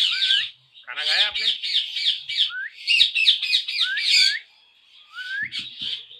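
Parrots chattering in rapid high-pitched chirps with short rising whistles; the calls stop briefly about four and a half seconds in, then resume more softly.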